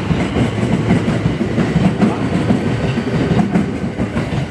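Electric commuter train running along the platform, with a steady rumble and its wheels clattering over the rail joints.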